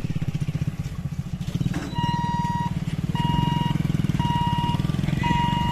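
Motor vehicle engine running with a low, pulsing rumble; about two seconds in, an electronic beeper joins, sounding one steady pitch in long beeps about once a second.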